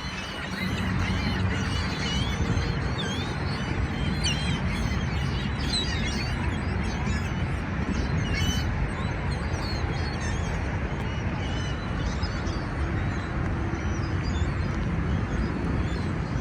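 Seagulls calling, with many short squawking cries over a steady low rumble.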